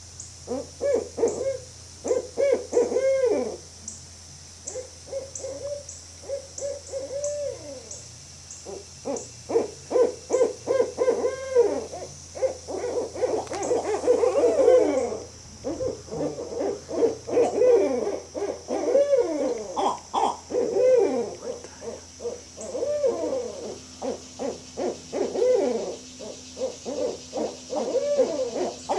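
Barred owls calling together: a long run of loud hoots that rise and fall in pitch, with some notes overlapping.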